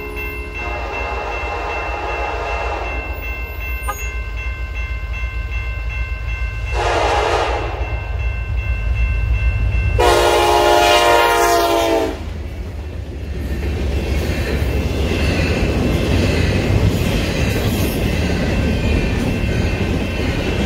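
Horn of a CN SD70M-2 diesel locomotive leading an intermodal freight, sounded in three blasts: a long one, a short one, then a long, loudest one as the locomotives pass, over the low rumble of the diesel engines. After that comes the steady rolling noise of double-stack container cars going by on the rails.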